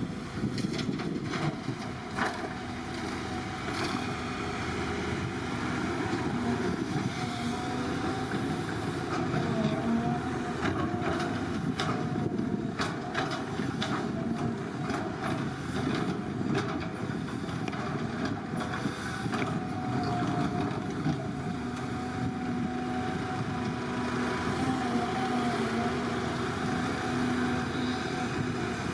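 Excavator's diesel engine running steadily, its pitch wavering a little as it works, with scattered clanks and knocks.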